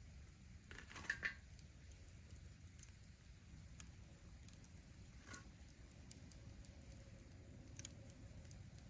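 Campfire of burning firewood crackling faintly, with scattered snaps and a short cluster of louder pops about a second in and another around the middle, over a low steady rumble.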